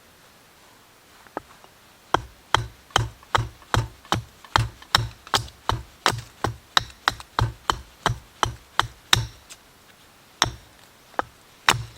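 Repeated chopping strikes on wood, a fast even run of about three hard knocks a second that stops about three-quarters of the way through, followed by three more spaced strikes.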